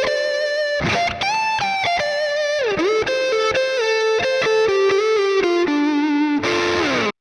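Epiphone Widow Les Paul Custom electric guitar playing a single-note lead line through an amp, with string bends, vibrato and a falling pitch glide. Near the end a slide down, then the sound cuts off suddenly.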